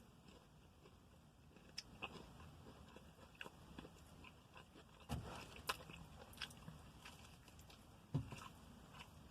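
Close-up chewing and biting of a Popeyes fried chicken sandwich: faint mouth clicks and crunches, with sharper bites about five seconds in and again about eight seconds in.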